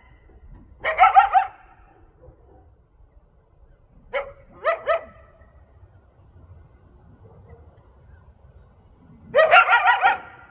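Coyote barks and yips in three bursts: a wavering bark-yip series about a second in, three short sharp yips around the middle, and a longer run of wavering yips near the end.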